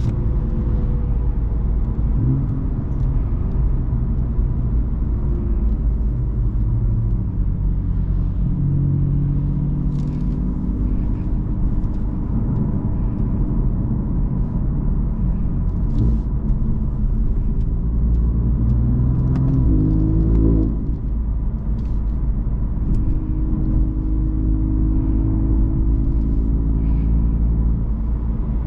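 BMW M3 F80's twin-turbo inline-six with an M Performance exhaust, running at part throttle while driving, its pitch drifting with road speed. About twenty seconds in the revs climb and then drop off sharply, as at a gear change.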